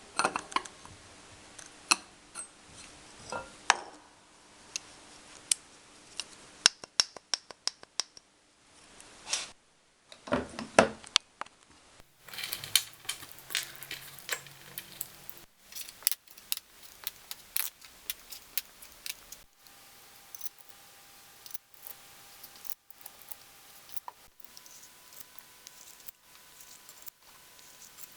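Clicks, clinks and knocks of hand tools and metal engine parts being handled during an engine rebuild, with a fast even run of ticks about seven seconds in. The background changes abruptly several times where the footage is cut.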